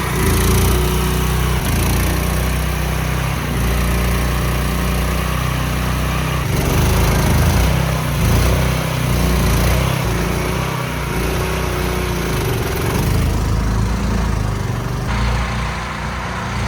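A mud boat's small air-cooled engine running hard under load as the boat pushes through thick mud, with a steady low drone that shifts a little in pitch and level.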